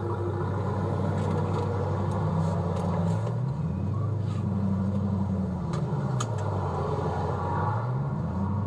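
Dodge Scat Pack's 392 HEMI V8 running as the car drives: a steady low drone whose pitch rises and falls a few times with engine speed.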